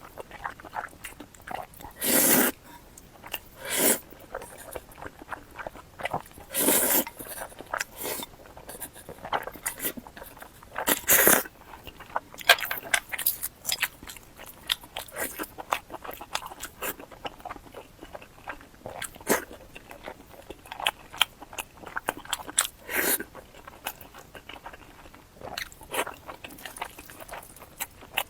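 Close-miked eating: a person biting and chewing food, with many short wet smacks and clicks and a few louder, longer bursts.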